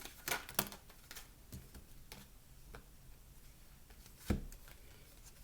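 Tarot cards being shuffled and handled, a string of short card clicks over the first few seconds, then a single thump a little past four seconds in.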